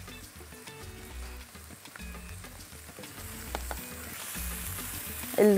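Diced chicken and onion sizzling in a stainless steel pan, freshly dusted with ginger and turmeric, as a silicone spatula stirs them with light taps and scrapes. The sizzle gets stronger near the end.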